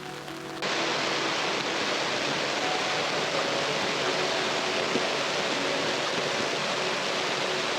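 Steady rain, a dense even hiss that starts suddenly about half a second in as background music cuts off.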